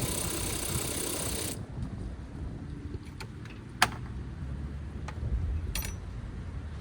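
Hand work on a car's front end: a rustling hiss for the first second and a half, then a few sharp metallic clicks and clinks of tools or parts being handled, the loudest about four seconds in.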